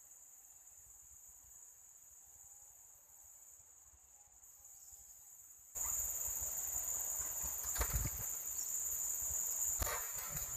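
Steady, high-pitched insect chorus that suddenly gets louder a little past halfway, with two short low knocks near the end.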